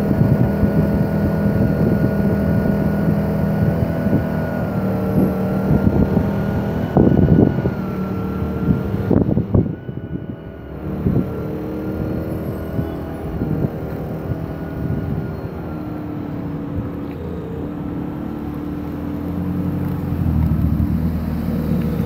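Car engines running at low speed as cars drive slowly past, a steady deep hum with engine tones. A few sharp thumps come around the middle, and an engine's pitch rises near the end.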